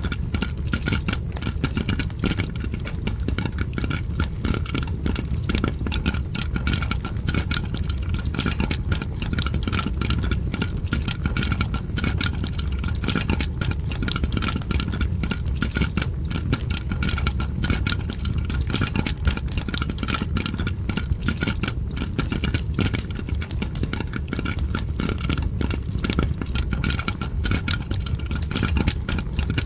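Continuous dense crackling and popping of popcorn popping layered with a crackling fireplace, over a steady low rumble.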